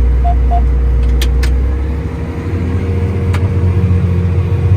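Tractor engine running steadily, heard from inside the cab, its low note shifting higher about two seconds in. Two short electronic beeps sound near the start, with a few sharp clicks.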